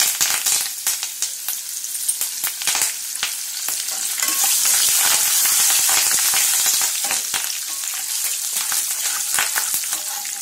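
Curry leaves and cashews sizzling and spluttering in hot ghee in a small kadai as a spatula stirs them: the tempering (tadka) for pongal. A steady hiss is crowded with sharp pops and swells loudest around the middle.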